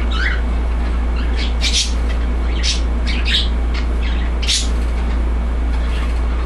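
A handful of short, high chirps from small birds, the clearest four coming between about one and a half and four and a half seconds in, over a steady low hum.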